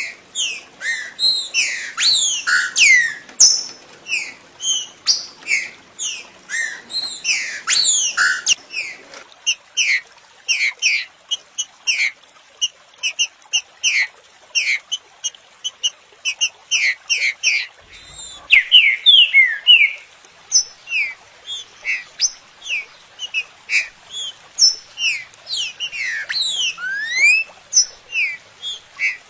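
Green-winged saltator (trinca-ferro) song: a fast, unbroken run of short, sharp whistled notes, many sliding down in pitch. A faint low hum lies under the first nine seconds or so, then stops.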